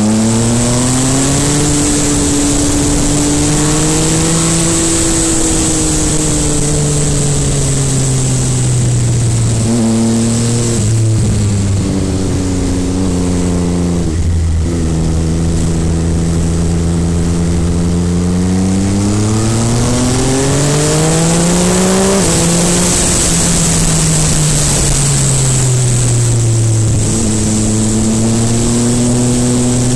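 MV Agusta Brutale 800RR's three-cylinder engine under way, its pitch climbing and falling with the throttle, with several abrupt drops at gear changes, about ten seconds in, about fourteen seconds in and after a long climb about twenty-two seconds in.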